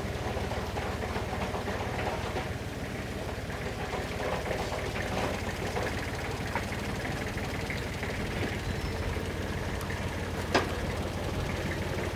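A machine running steadily, with a low hum and rapid even pulsing, and scattered small clicks. One sharp click comes near the end.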